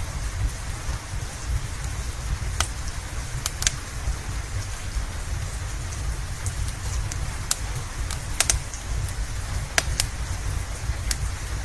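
Steady rain with a low rumble, mixed with a crackling wood fire: sharp, irregular pops and snaps scattered through it, a few in quick pairs.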